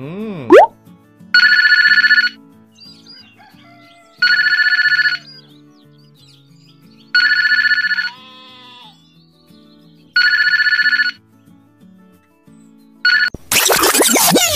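A telephone ringtone rings four times, each ring about a second long and about three seconds apart, over soft background music. A quick rising whistle comes at the start, and a loud noisy sound effect comes near the end.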